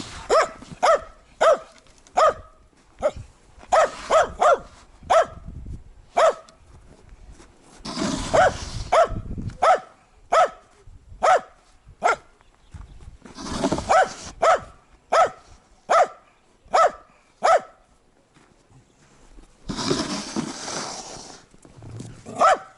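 A dog barking over and over: short, sharp barks in runs of two to four, about one or two a second. Four longer rushing noises of about a second each fall between the runs, near the start, about a third of the way in, past halfway and near the end.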